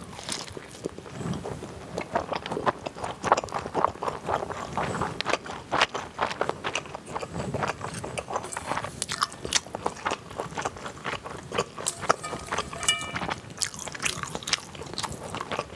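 Close-up chewing of a large steamed meat dumpling: wet biting and mouth sounds with many small clicks. About twelve seconds in comes a short ringing clink, as of chopsticks against the brass noodle bowl.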